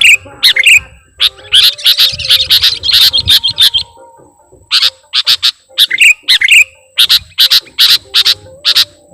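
Sooty-headed bulbul (kutilang) calls played as a loud bird-lure recording: rapid runs of short, sharp chirps with a few brief whistled notes, pausing for a moment about four seconds in.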